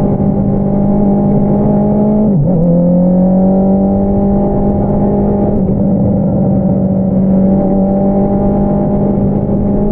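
Honda CBR650R's inline-four engine running through an Akrapovič single-outlet exhaust, holding a steady high note while riding. The pitch drops sharply for a moment about two and a half seconds in, then climbs back gradually and holds steady again.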